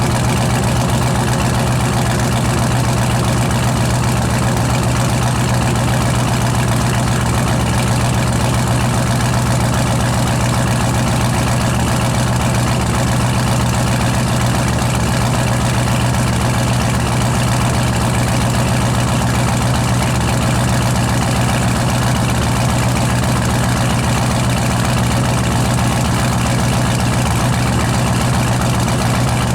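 Supercharged 6.0-litre LS V8 idling steadily at an even pitch, on its first run after a rebuild with a new cam.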